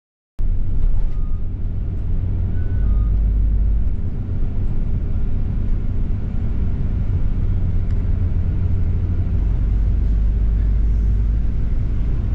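Bus running, a steady low rumble of engine and road noise, with two or three brief faint beeps about one to three seconds in.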